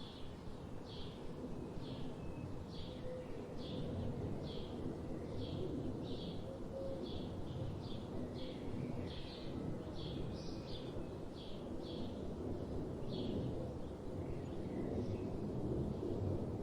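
Forest ambience: a bird repeats a short chirp-like call, a little more than one a second, over a steady low rumble.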